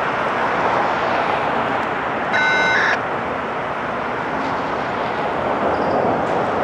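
Freight train rolling by with a steady, loud rushing rumble of wheels on rail. A short, high beep-like tone sounds once, about two and a half seconds in.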